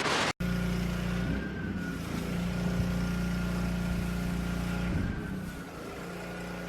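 A motor or engine running steadily with a low hum and a thin higher whine that wavers slightly twice, after a short loud burst of noise at the start.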